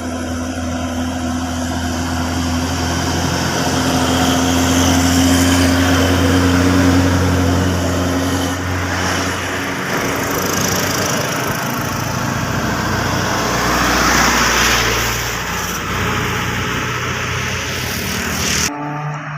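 Heavy diesel truck engines running as trucks roll slowly downhill past, growing louder to a peak, with a second swell later; the sound cuts off abruptly near the end.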